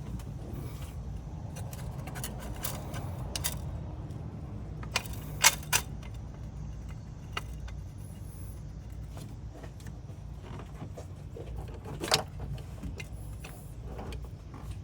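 Metal hand tools and parts clinking and tapping during work in an engine bay. A few sharper metallic clinks come about a third of the way in, and another comes near the end, over a steady low hum.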